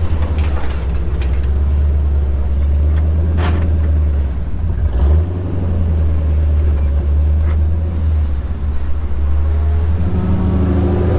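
Off-road recovery truck's engine running with a low, steady drone as it drives slowly over a rough trail, with a single sharp knock a few seconds in and the engine note changing near the end.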